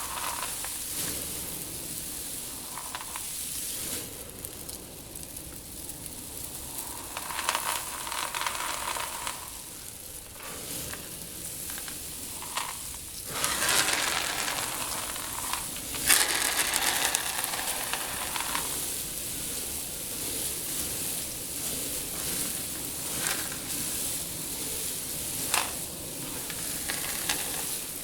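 Loose seed in a tank shifting and trickling, a steady grainy hiss with louder swells at times and a few sharp clicks.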